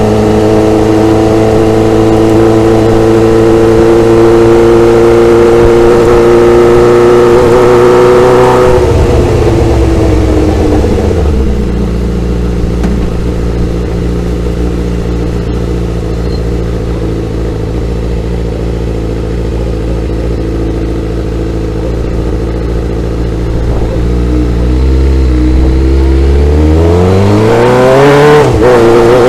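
Motorcycle engine under way. It runs at a steady, slowly rising pitch for about eight seconds, then the revs fall as it slows and hold a lower steady note for a long stretch. Near the end it accelerates, the pitch climbing steeply, with a brief dip at a gear change.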